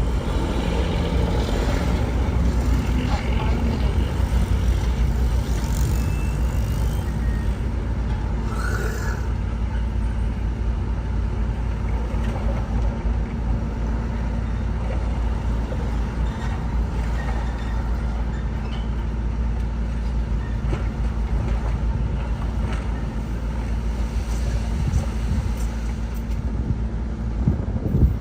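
Heavy diesel earthmoving machinery running steadily, a low engine drone with no break.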